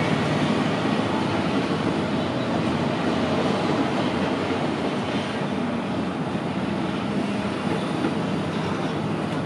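A diesel-electric locomotive hauling passenger coaches past on the rails: a steady, continuous noise of the engine and the rolling train.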